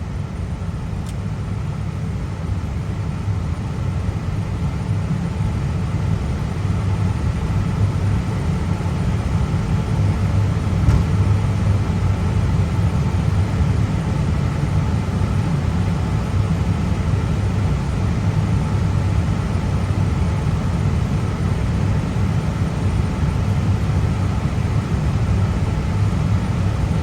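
Steady low rumble inside an Airbus A320 cockpit on the ground with the engines running, with a faint steady hum above it; it grows a little louder about six seconds in.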